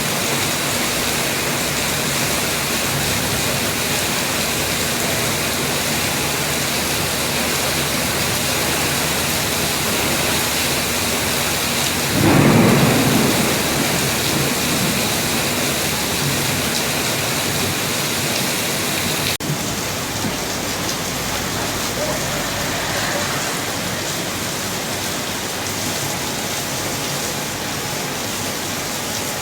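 Heavy rain pouring steadily, with a low rumble of thunder rising and fading about twelve seconds in.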